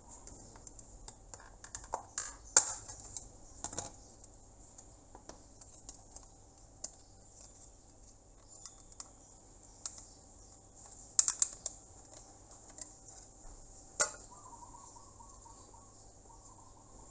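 Small scattered clicks and knocks of a network switching hub's casing and parts being handled and opened up by hand, with a few sharper clacks about two and a half, eleven and fourteen seconds in.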